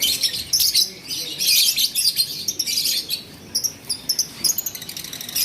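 Lovebirds chattering with rapid, shrill chirps, densest during the first three seconds and thinning out afterwards.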